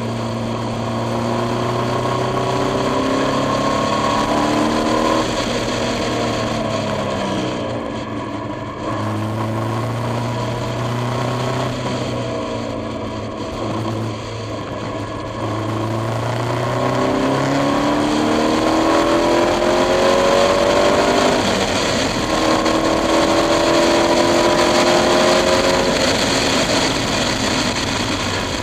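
KTM X-Bow engine under hard track driving, heard from inside the open cockpit: its pitch climbs through the revs, falls back at each gear change or lift, then climbs again, several times over, with wind rush behind it.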